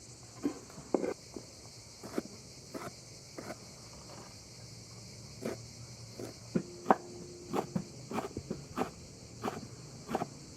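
A steady high-pitched insect chorus, with irregular light knocks and taps, about one or two a second, over it.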